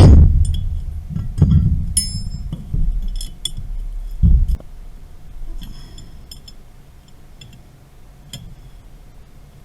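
Low thumps and metallic clinks from tools and pipe fittings being handled during valve-replacement work. One clink rings briefly about two seconds in, and the thumps die away after about four and a half seconds, leaving only a few faint clicks.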